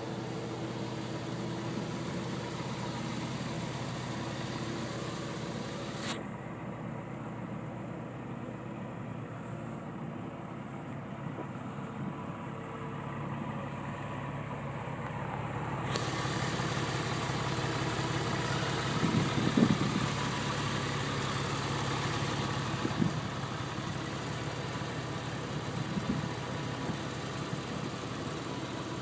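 Porsche 911 Carrera (996) 3.4-litre flat-six idling steadily, a little louder in the second half, with a few brief bumps.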